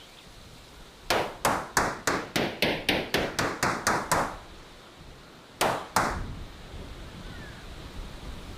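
About a dozen sharp knocks struck in quick succession, roughly four a second, then a pause and two more knocks close together, typical of a hand tool striking wood in building a miniature shed.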